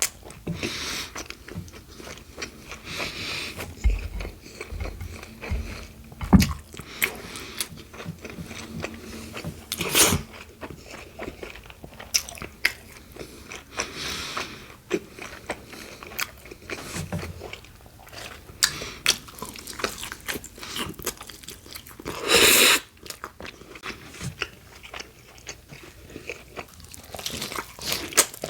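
A person biting into and chewing a BLT sandwich of bacon, iceberg lettuce and Italian bread, with crisp crunching and many small crackles as they chew. One louder crunch, about half a second long, comes about three-quarters of the way through.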